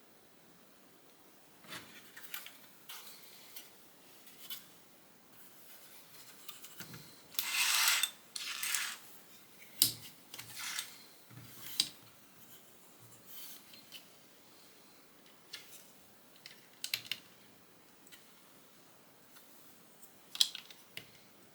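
Plastic Lego bricks being handled and pressed together: scattered light clicks and taps, with a longer rattling rustle of loose pieces about seven to nine seconds in.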